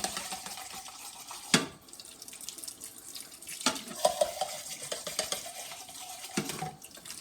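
Water running in a kitchen sink while canned beans are drained, with a couple of sharp knocks of a can or dishes against the sink.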